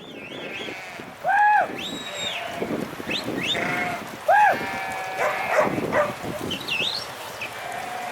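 A flock of sheep bleating, several calls overlapping, the two loudest about a second and a half and four and a half seconds in. Thin high whistling sweeps come and go between the bleats.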